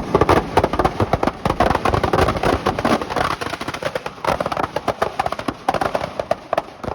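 Dense, rapid crackling and popping, many sharp cracks a second, easing off near the end.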